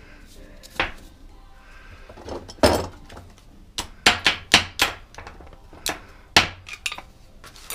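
Hammer tapping metal spindle parts of a mower deck spindle into place: sharp metal knocks and clinks at an irregular pace, with a quick run of four about four seconds in.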